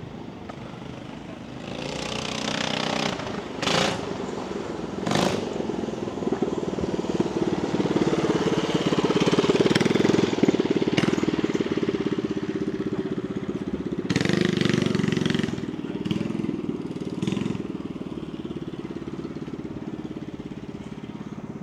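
A vehicle engine running close by, getting louder to a peak near the middle, rising again a few seconds later, then easing off. Two sharp knocks sound about four and five seconds in.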